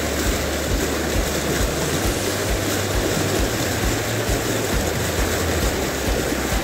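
Aygır Dibi waterfall in spate: a loud, steady rush of falling water, with a low thudding pulse about three times a second underneath.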